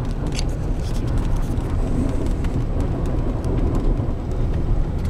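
Four-wheel-drive pickup truck heard from inside the cab while driving on snowy roads: a steady low engine and road rumble.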